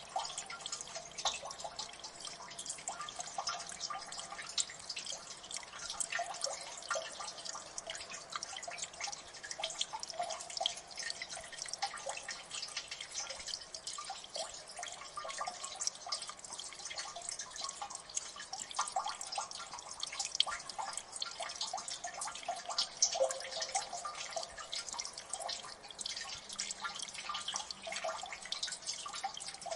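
Water dripping in a gully: many drops falling fast and irregularly, overlapping plinks and splats with no steady rhythm.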